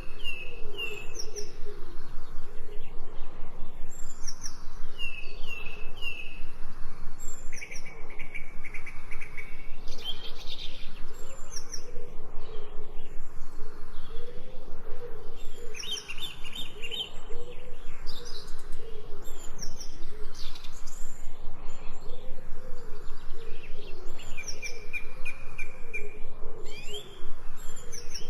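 Several birds chirping, with short repeated chirps and trills in a high register, over a continuous low, wavering call that pulses several times a second.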